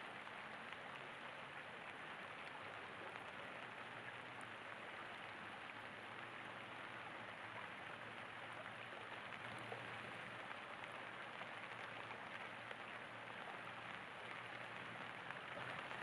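Steady rain falling: an even hiss of many small drops, unchanging throughout.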